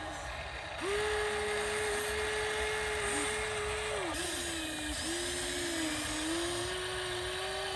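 Small electric motor of a remote-control construction vehicle whining at a steady pitch. It starts about a second in, dips briefly twice around the middle and settles a little lower.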